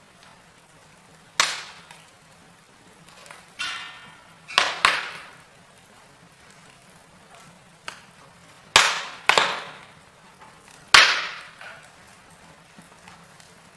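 Wood fire in a fireplace crackling, with about eight sharp pops every second or two, some in quick pairs, over a faint steady hiss.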